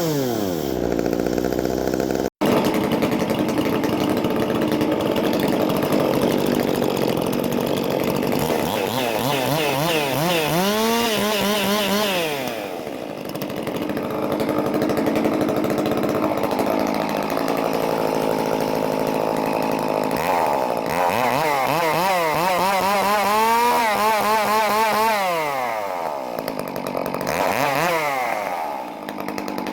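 Two-stroke Stihl chainsaw fitted with a handmade custom exhaust, running and being revved, its pitch rising and falling again and again. The engine eases off briefly twice, and there is a sudden short break about two seconds in.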